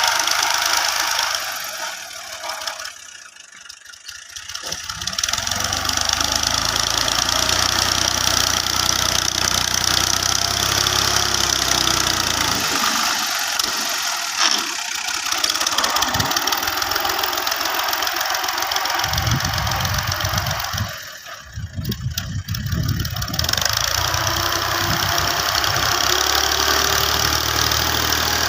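Tractor engine running, the sound falling away briefly twice, about three seconds in and again about twenty-one seconds in.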